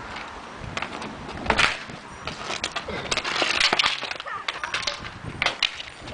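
Ball hockey play: plastic sticks and a hard ball clacking in a run of irregular knocks and taps, with a sharper hit about a second and a half in and a stretch of scraping a few seconds in.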